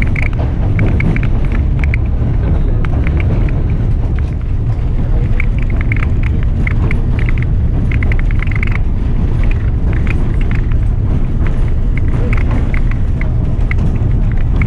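White Pass & Yukon Route passenger train rolling along the track: a steady low rumble with short, high squeaks and clicks coming and going.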